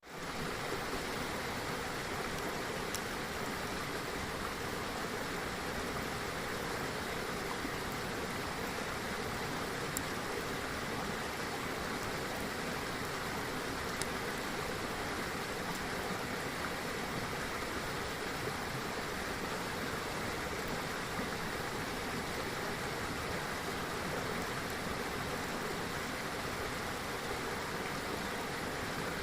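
River water rushing steadily, with a few faint, sharp pops scattered through it.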